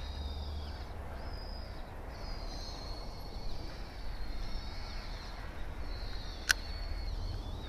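Birds singing, thin high wavering lines of song that come and go, over a steady low wind rumble on the microphone. A single sharp click cuts through about six and a half seconds in.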